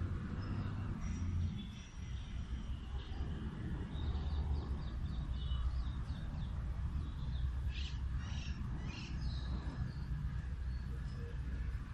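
Birds chirping, with short high calls and quick rising notes that come thickest in the middle, over a steady low rumble.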